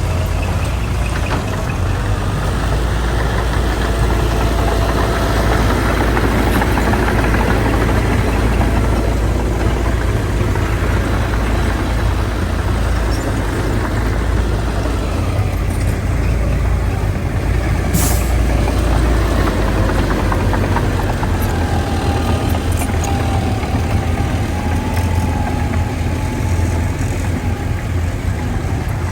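Heavy diesel engines of a bulldozer and dump trucks running steadily with a deep rumble. A short, sharp hiss comes about eighteen seconds in.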